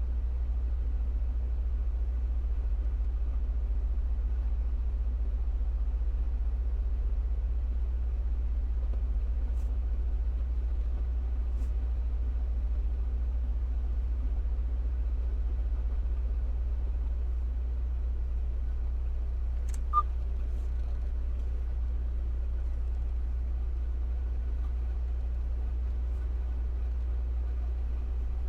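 Steady low rumble of an idling semi-truck engine, with one sharp click about twenty seconds in.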